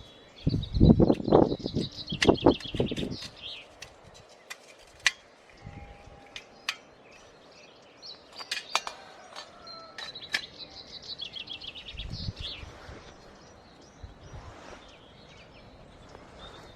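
A songbird singing two trilled phrases that fall slightly in pitch, one near the start and another about two-thirds of the way in. Low thuds and rustling, loudest in the first few seconds, and a few sharp clicks come with it.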